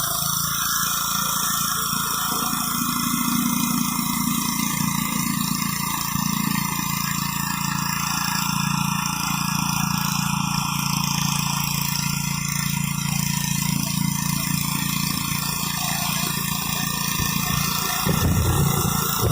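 Gas-engine pressure washer running steadily under load, with the high-pressure water spray hissing against concrete. The sound grows louder and rougher near the end.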